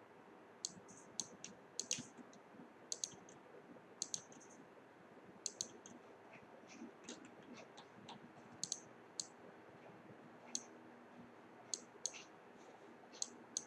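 Light, sharp clicks at irregular intervals, roughly one or two a second with some pauses, over a faint steady hiss.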